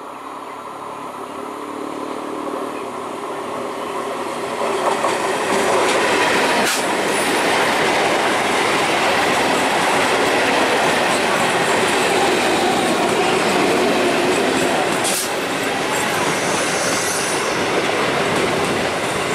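Electric multiple unit (EMU) local train running on the track. The running noise builds over the first five seconds, then stays loud and steady, with two sharp knocks partway through.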